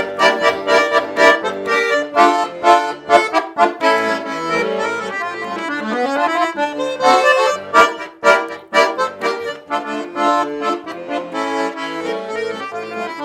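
Accordion playing an instrumental interlude: a melody line over rhythmic, evenly pulsed chords in the accompaniment.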